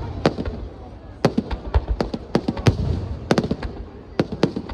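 Fireworks display: aerial shells bursting in a quick, irregular string of sharp bangs, several close together at a time, over a low rolling rumble.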